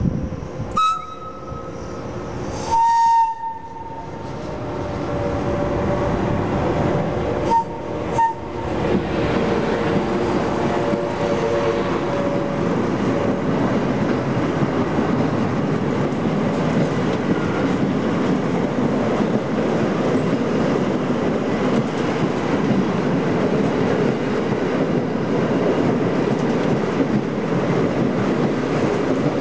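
Train horn giving short blasts, the loudest about three seconds in and a quick double blast near eight seconds. Then a train running past, its noise building over several seconds and holding steady.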